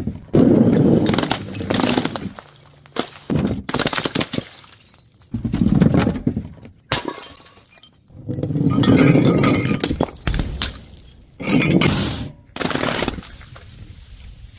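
Glass bottles and jars shattering and being crushed: a series of about six loud crashes of breaking glass, each with crunching and cracking that lasts a second or two, separated by short pauses.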